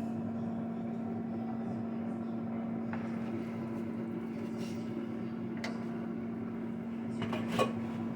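Steady electric hum of a running kitchen appliance, with a few light clinks of a utensil against a cooking pot, the last ones near the end.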